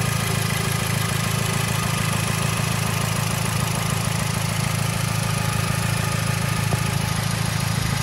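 2011 Mazda CX-7 GT's 2.3-litre turbocharged four-cylinder engine idling steadily, heard from beneath the car during a leak check after an oil cooler replacement.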